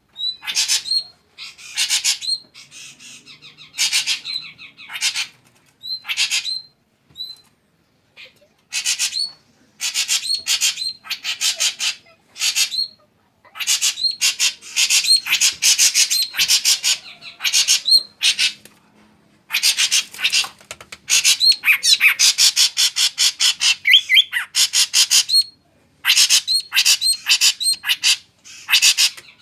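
Drongo singing: bursts of rapid, sharp repeated notes with short pauses between phrases.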